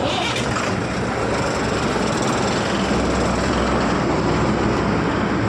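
Loaded goods trucks running on the road close by: a steady loud rush of diesel engine and tyre noise.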